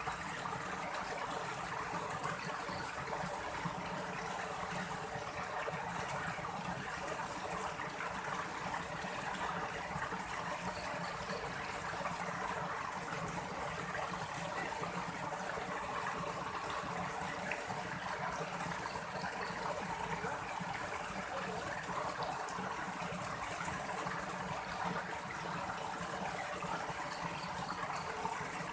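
Steady flow of running water, as of a stream, with no pauses or changes.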